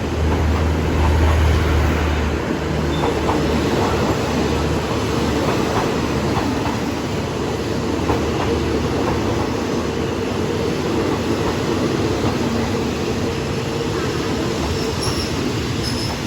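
Passenger train running at speed, heard from inside a carriage: a steady rumble of wheels on the track, with a strong low hum during the first couple of seconds.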